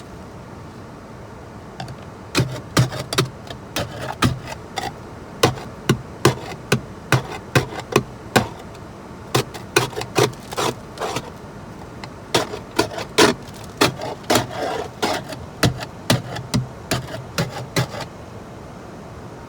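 A long series of hard knocks, irregular, about two a second, starting about two seconds in and stopping near the end.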